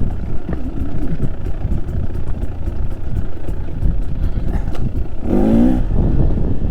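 Trail motorcycle engine running at low revs over rough ground, with a brief burst of revs about five seconds in.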